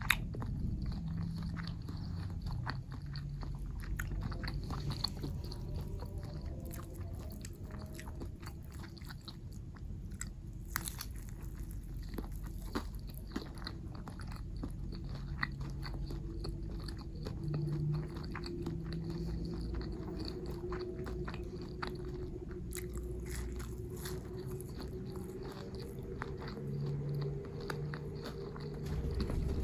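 Close-up eating sounds: biting and chewing martabak telur and spicy noodles, with frequent small crunches and wet mouth clicks.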